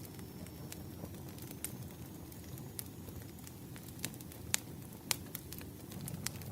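Wood fire burning, with irregular sharp crackles and pops over a steady low rumble; the loudest pops come about four and a half and five seconds in.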